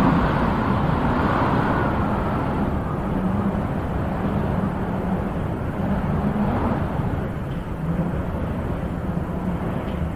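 Wind blowing in gusts, a steady low rushing that swells at the start and again about six and a half seconds in.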